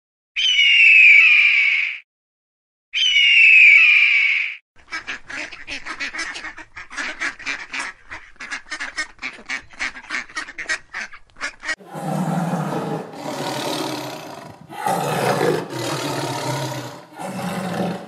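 A run of animal calls. Two long shrill calls open it, then a fast series of short calls at a few a second, then from about twelve seconds in several longer, lower calls.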